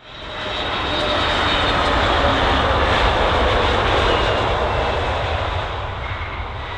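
Airliner engines close by: a loud rushing roar with faint whining tones that drift slowly, swelling over the first second and easing slightly towards the end.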